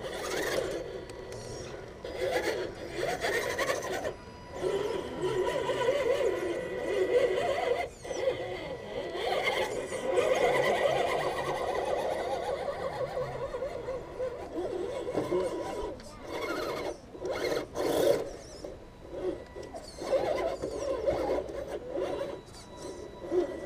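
Electric motors and gear drivetrains of radio-controlled scale rock crawlers whining as they climb, rising and falling with the throttle, with occasional sharp scuffs.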